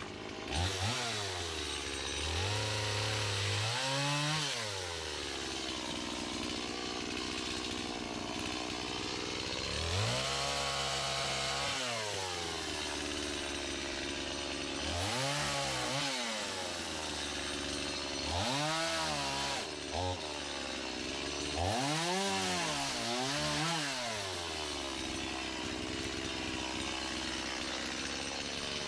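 Chainsaw running hard throughout, its engine pitch dropping and climbing back again several times, around 4, 10, 15, 19 and 22–24 seconds in, as it works through wood.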